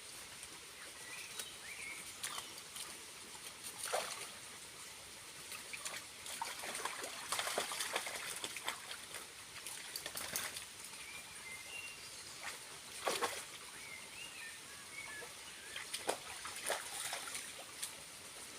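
Water trickling and splashing at a small waterfall, with irregular louder splashes, the biggest cluster about halfway through. Faint bird chirps come through a few times.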